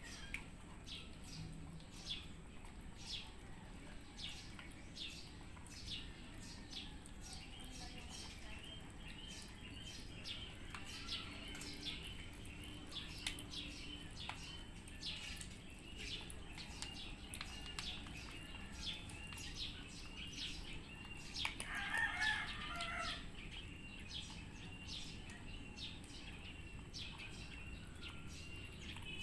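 Faint, irregular short crunches and clicks of cats chewing dry kibble mixed with wet food, over steady high bird chirping, with a louder burst of calls about two-thirds of the way through.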